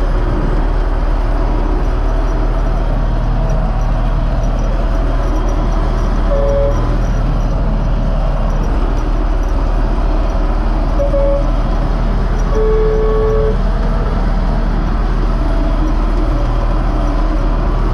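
UTB Universal U650 tractor's diesel engine running steadily, heard close. Three short high tones sound in the middle, about six and a half, eleven and thirteen seconds in.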